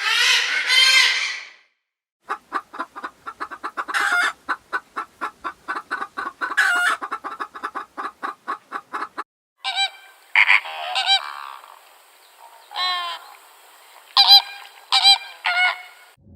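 Geese honking, in three short clips: one drawn-out call, then a rapid run of short honks at about four a second, then scattered honks over a faint steady hiss.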